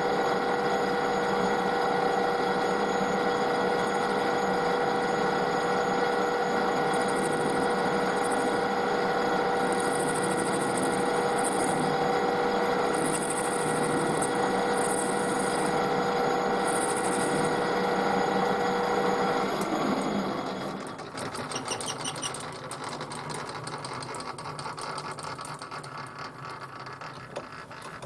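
Metal lathe running with a steady whine, switched off about twenty seconds in, followed by quieter clicks and rattles.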